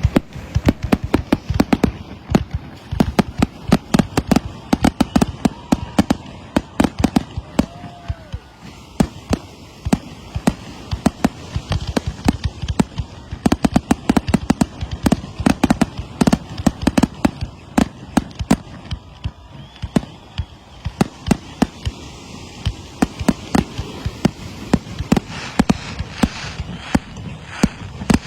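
Fireworks display going off in a rapid, continuous barrage of loud bangs, several a second.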